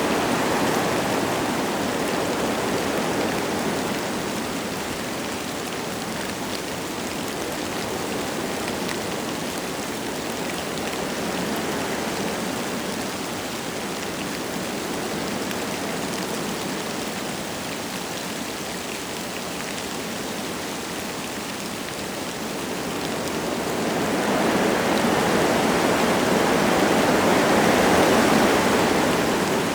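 Wind gusting through forest trees with light rain falling. A gust eases after the first few seconds, the wind stays lower through the middle, and a stronger gust swells up near the end.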